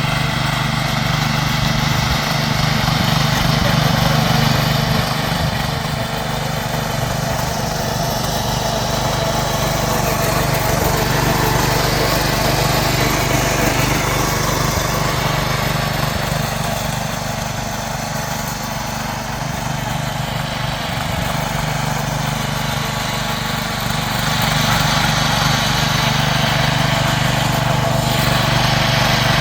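Small 7 hp petrol engine of a mini power tiller running steadily, with its loudness sagging slightly in the middle and rising again.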